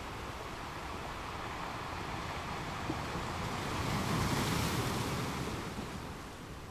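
Sea water washing and lapping, mixed with wind noise on the microphone, swelling louder for a moment about four seconds in.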